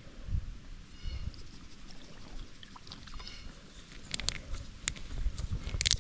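Faint bird calls outdoors: short chirps about a second in and again about three seconds in. Light sharp clicks and taps follow in the last two seconds.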